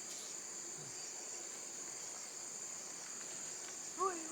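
Steady, high-pitched chorus of insects, crickets or cicadas, droning without a break. About four seconds in, a single short voice-like syllable sounds over it.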